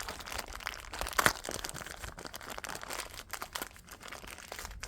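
Hand-handling of parts and tools on a workshop bench: irregular small clicks and knocks, with a sharper knock about a second and a quarter in.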